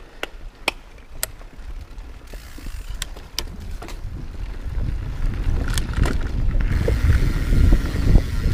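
Mountain bike rolling along a dirt trail: a low rumble of tyres and wind that builds steadily, with sharp clicks and rattles from the bike, most of them in the first few seconds.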